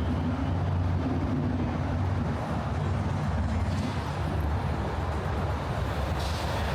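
Steady low hum of city traffic and vehicle engines, with an engine drone that is strongest for the first two or three seconds.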